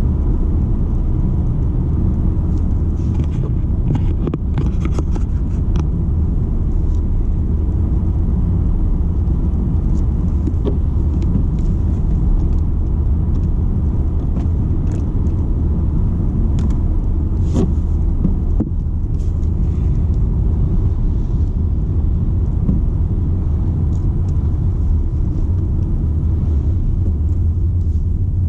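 BMW 120d's four-cylinder turbodiesel and tyre noise as the car drives along at a steady pace: a constant low rumble with no revving up or down, broken now and then by a few light clicks.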